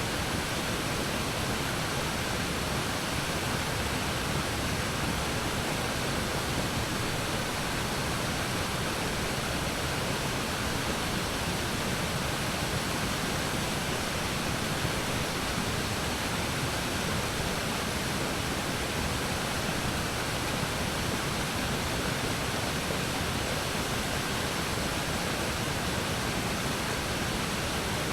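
Waterfall on a river, its water falling and splashing in a steady, unbroken rush.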